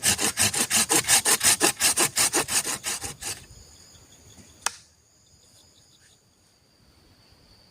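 Hand saw cutting through wood with quick, even back-and-forth strokes for about three seconds, then stopping; a single sharp click follows. Insects keep up a steady high buzz behind it.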